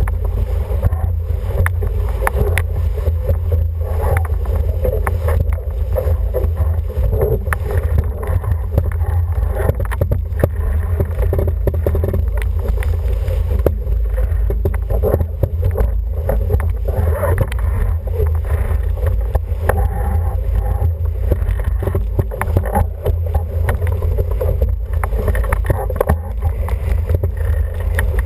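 Wind buffeting the microphone over water rushing and splashing against an International 14 sailing dinghy's hull under sail, steady throughout, with frequent sharp knocks and clicks.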